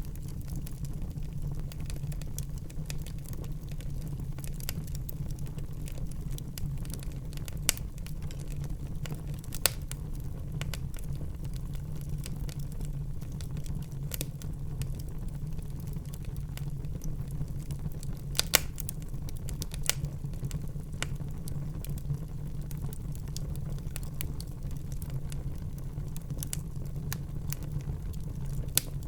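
Wood fire burning in a fireplace: a steady low rumble of the flames with scattered sharp crackles and pops, the loudest at about 8, 10 and 18 seconds in.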